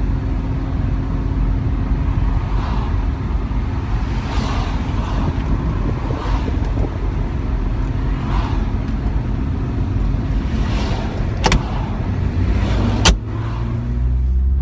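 A 2006 Porsche Boxster 2.7 running, with a steady low engine and road rumble and a hum that changes about ten seconds in. Two sharp clicks come near the end, the second one louder.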